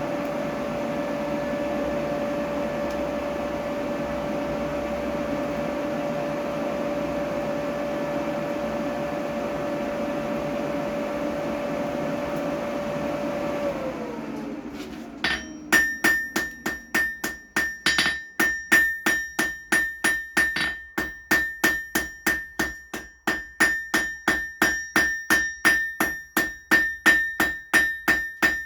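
A motor, most likely the forge blower, hums steadily and then spins down about halfway through. Then a hammer beats hot 6 mm mild steel round bar on the anvil, roughly three blows a second with a bright ringing note, tapering the bar's end to a point.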